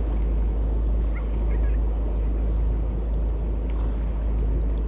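Wind buffeting the microphone in a steady deep rumble over the wash of river waves, with a few faint short chirps about a second in.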